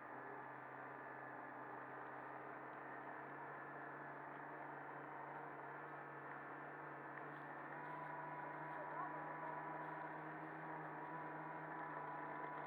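Snowmobile engine running steadily, a low drone with several steady tones above it, growing a little louder about eight seconds in.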